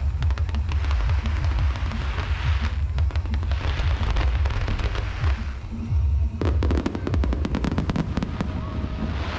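Aerial fireworks display: a steady run of deep booms from bursting shells, with a dense stretch of rapid crackling in the second half.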